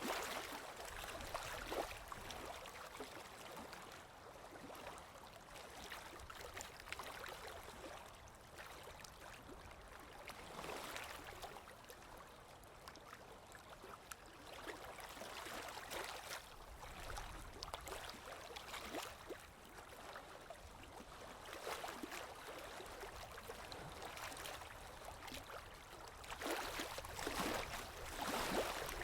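Flowing water running and splashing with a continuous gurgle, swelling and easing every few seconds and loudest near the end.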